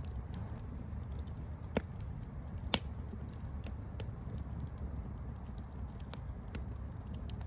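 Campfire crackling: scattered small pops and snaps over a steady low rumble. Two sharper pops come a little under two seconds in and just under three seconds in, the second the loudest.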